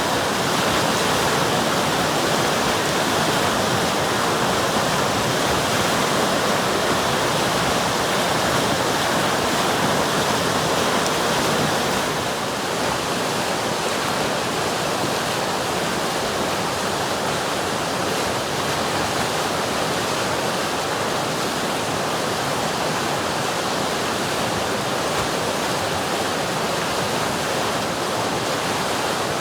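River water flowing and rushing: a steady, dense noise that gets slightly softer about twelve seconds in.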